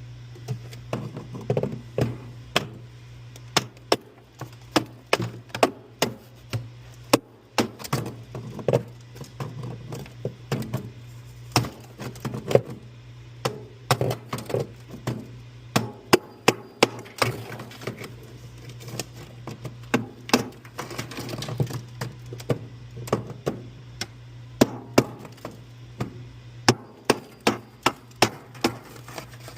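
Repeated irregular sharp knocks and taps of hands and tools working on refrigerator freezer parts, over a steady low hum.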